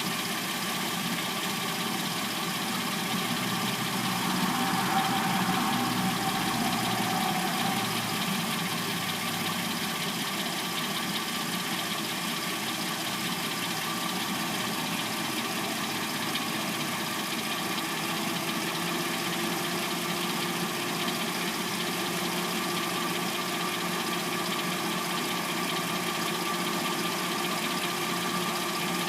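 Hyundai Sonata's replacement engine idling warm, with a light clacking that the owner takes for the timing chain. It runs steadily, briefly a little louder about five seconds in.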